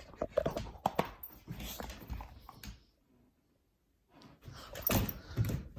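Dog sounds mixed with scuffling and knocking handling noise, a quiet gap about three seconds in, then louder scuffling near the end.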